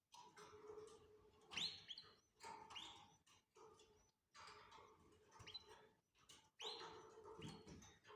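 Canaries chirping faintly, with short rising calls; the clearest ones come about a second and a half in, near three seconds and near seven seconds, among small clicks.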